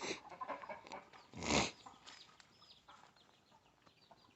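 Backyard chickens clucking, with small chicks peeping in short falling chirps. A short, loud noise comes about a second and a half in.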